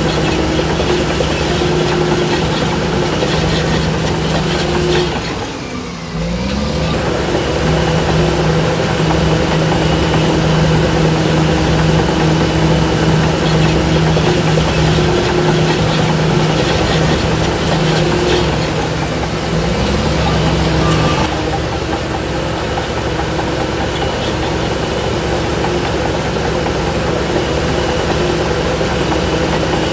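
Heavy diesel engine of earthmoving machinery running steadily. About five seconds in it drops off briefly, then revs back up, and there is another short rise in pitch around twenty seconds in.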